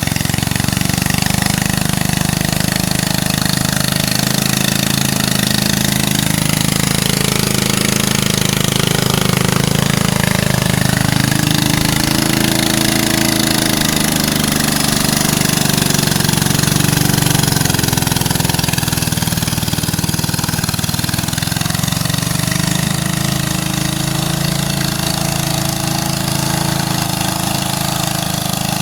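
Tractor engine running steadily, its pitch drifting up and down a little through the middle.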